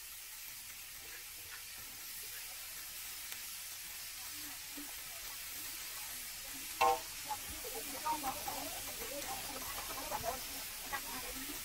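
Food sizzling as it fries in a pan, a steady hiss. A short sharp cry comes about seven seconds in, followed by scattered indistinct voices.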